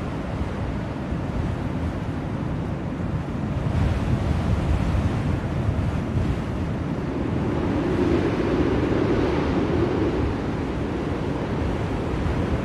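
Blizzard wind blowing steadily in gusts. It rises about four seconds in and swells again a few seconds later.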